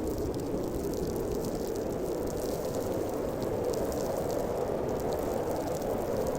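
Blizzard wind howling steadily, a constant rushing noise with a hollow mid-low tone, with faint scattered ticks of snow or ice on top.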